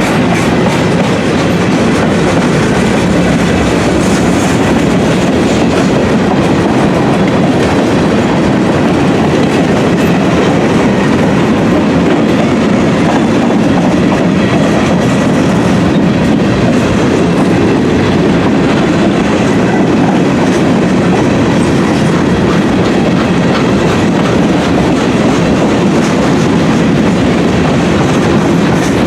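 Freight train of gondola cars rolling past close by, steel wheels running steadily on the rails. The sound stays loud and even throughout, without a horn.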